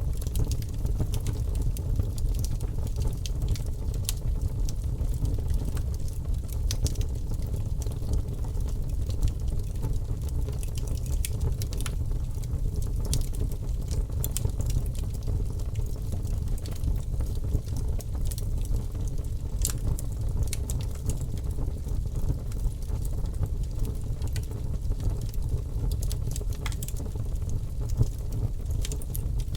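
Wood fire crackling in a fireplace: a steady low rumble with frequent small pops and snaps scattered throughout.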